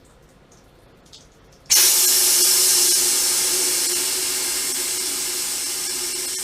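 A few faint drips, then a sudden loud hiss of spraying water or escaping pressure about two seconds in, with a steady low tone under it, slowly fading.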